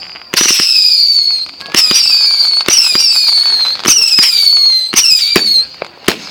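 Fireworks going off one after another: about five shrill whistles, roughly one a second, each starting with a sharp pop and sliding slightly down in pitch.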